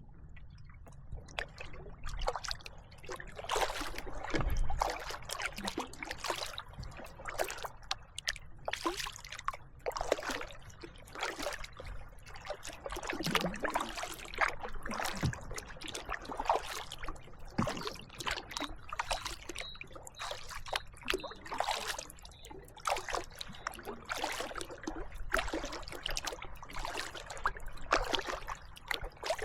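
Kayak paddling: water splashing and dripping off the paddle blades in repeated strokes, about one a second.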